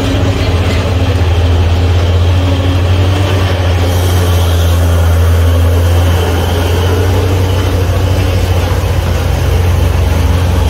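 A heavy truck engine running steadily close by with a deep, low drone. A hiss joins about four seconds in.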